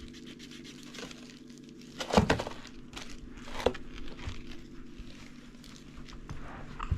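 A cluster of sharp knocks or cracks about two seconds in, a smaller one a second and a half later, and another near the end, over a steady low hum.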